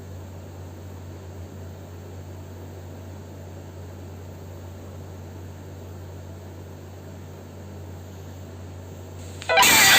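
Steady low hum and faint hiss of background noise. Loud music starts abruptly near the end.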